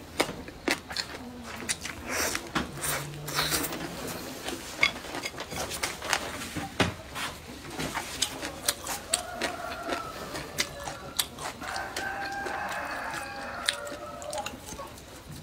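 Close-up chewing and crunching of stir-fried meat and vegetables, full of sharp mouth clicks and smacks. From about nine seconds in, a pitched animal call sounds in the background.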